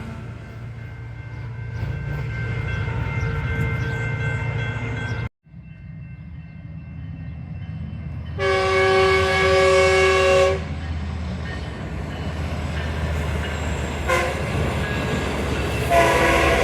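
Train locomotive rumbling past, with a steady low engine and wheel noise. About halfway through, the air horn sounds one blast of about two seconds in several tones at once, and a second horn blast starts near the end.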